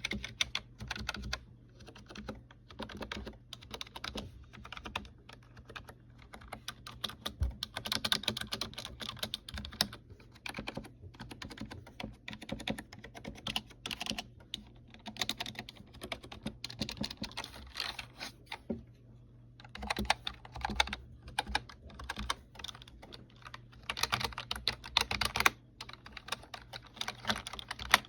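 Typing on a Razer Cynosa V1 membrane keyboard: rapid flurries of key clacks in uneven bursts with short pauses between them, the sound of the keys in a typing sound test.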